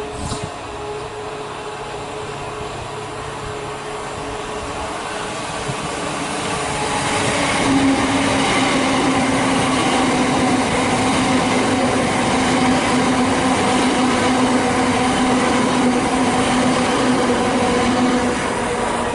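A Southern electric multiple-unit train passes close along the platform. Its sound builds over several seconds as it comes up, then holds as a loud steady hum with wheel-on-rail noise while the carriages go by, and eases just as the last coach passes.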